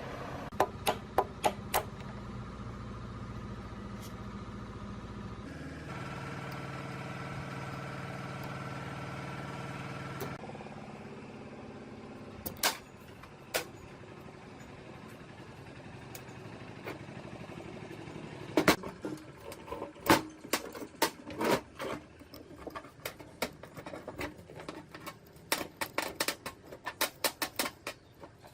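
A small motor running with a steady hum for about the first ten seconds, then a run of sharp clicks and knocks, thickest in the last third.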